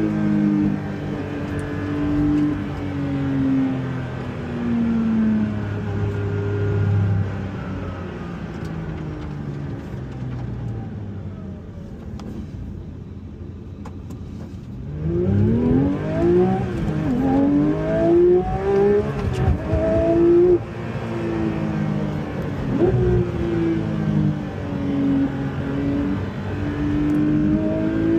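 Porsche 911 flat-six engine driven hard on the road, its pitch climbing and dropping through the gears. About a third of the way in it eases off into a quieter stretch of falling revs. Then it accelerates hard through several quick upshifts, with a sharp lift-off just past two-thirds, before running on with revs rising and falling.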